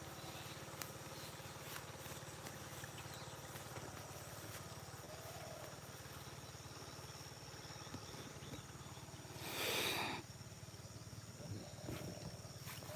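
Outdoor rural field ambience at early morning: a steady low hum, a few faint short calls, and one loud rushing, breathy burst lasting about a second, about nine and a half seconds in.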